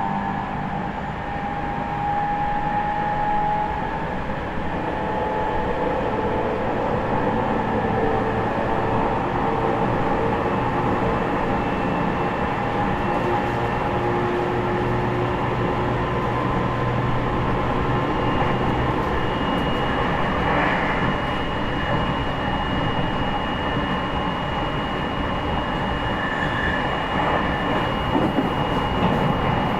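Running noise inside the motor car of a JR East E501 series electric train between stations: steady wheel-on-rail rumble with the hum of the traction motors and their Toshiba IGBT inverter. Several steady tones sit over the rumble, and a thin high tone comes in about two-thirds of the way through and holds.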